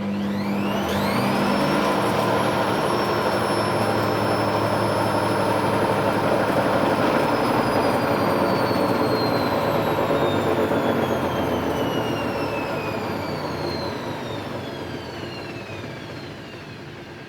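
Hoover Vision Dynamic DYN9154DBX washing machine spinning its drum: the motor whine rises fast in the first couple of seconds, holds at high speed, then falls slowly as the drum winds down. This is the spin stage of the machine's test cycle.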